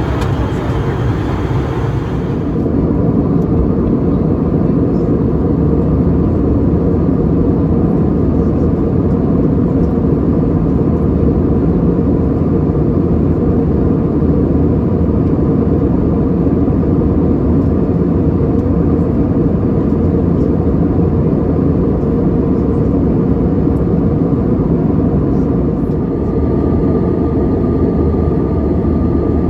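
Steady, loud rumble of an Airbus A320-200 airliner heard from inside the passenger cabin: engine and air noise with no break. About two seconds in the sound changes abruptly, and a faint steady whine joins in near the end.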